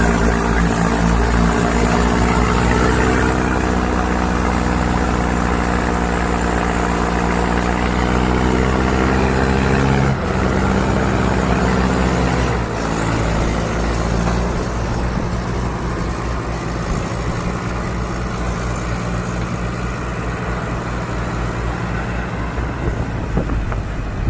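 Tractor engine running hard under load in sand, its note climbing slightly over the first ten seconds. The note drops about ten seconds in and again around thirteen seconds, then settles into a steadier, slightly quieter run.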